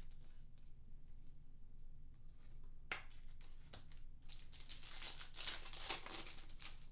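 A foil trading-card pack wrapper being torn open and crinkled, with a sharp click about three seconds in and a loud ripping rustle over the last couple of seconds.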